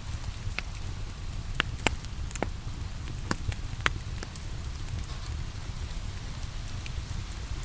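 Steady rain with a wood fire crackling over it, its sharp pops scattered and loudest in the first half.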